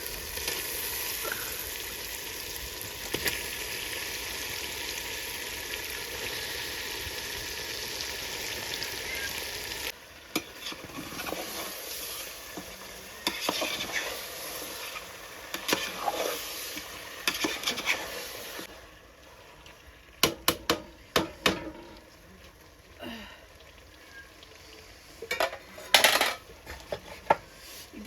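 Chicken pieces sizzling as they fry in a spiced masala in a pan, then a spatula scraping and stirring them in strokes. Later the sizzle drops away and several sharp clacks sound, in a cluster about two-thirds of the way in and again near the end.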